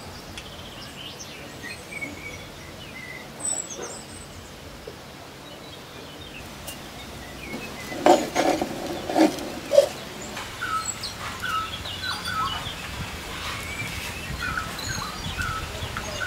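Small birds chirping on and off in the background, with a few louder short sounds close together about halfway through.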